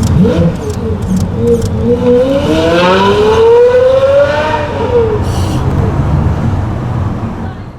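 Pagani Zonda F's 7.3-litre AMG V12 accelerating hard, its pitch climbing for about four seconds, then dropping away. The engine sound carries on lower and fades out near the end.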